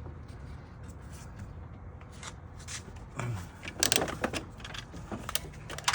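Rubber intake boot and plastic air box being handled and pushed together in the engine bay: scattered clicks and scrapes of plastic, busiest about four seconds in, over a steady low hum.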